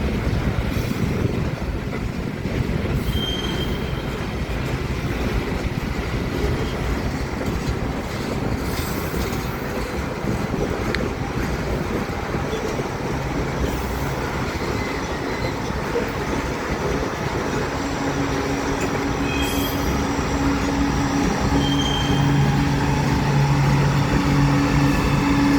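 Loaded gravel cars of a freight train rolling past, a steady rumble of wheels on rail with a few short, high wheel squeals. About two-thirds of the way through a steady low drone comes in and grows louder.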